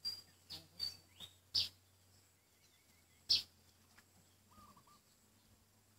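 Birds chirping: short, sharp, high chirps at irregular intervals, several in the first two seconds and a louder one a little after three seconds.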